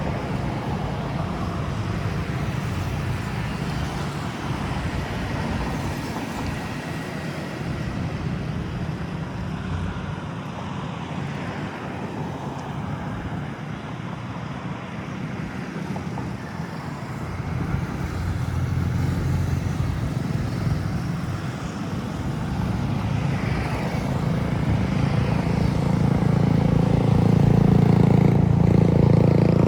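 Steady road traffic noise from passing motor vehicles, with a low engine rumble that grows louder over the last few seconds as a vehicle comes closer.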